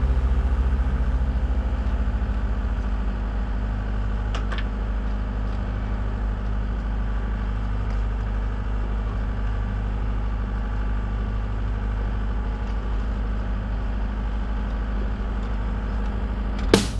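A machine engine idling steadily, with a low, even hum.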